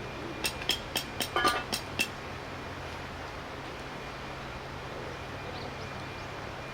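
A quick run of about seven sharp metallic clinks, one of them ringing briefly, as metal camp gear knocks together, over a steady low background rush.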